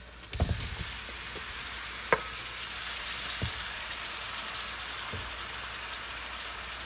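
Marinated chicken pieces going into a hot pan of oil, tomato and spices: frying sizzle that jumps up about a third of a second in and stays steady, with a few knocks of the pieces or utensil against the pan.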